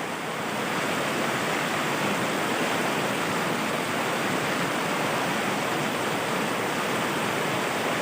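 Rushing water of river rapids: a steady, even rush of flowing water.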